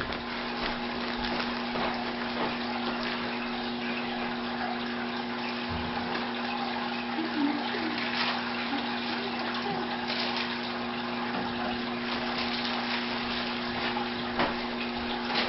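Aquarium water pump and filter running: a steady rush of moving water with a constant low hum, broken by a few faint knocks.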